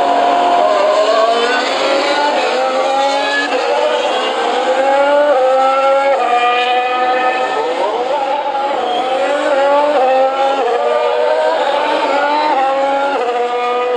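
2019 Formula 1 cars' 1.6-litre turbocharged V6 hybrid engines accelerating as they head onto the track. The pitch climbs and drops back with each upshift, and more than one car is heard at once, their notes overlapping.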